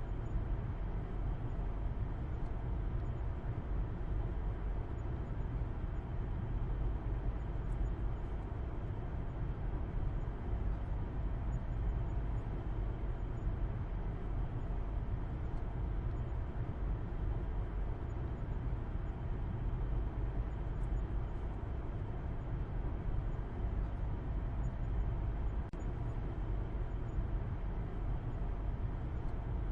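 Steady low rumble of a car being driven at constant speed, engine hum and road noise with no gear changes or speed changes.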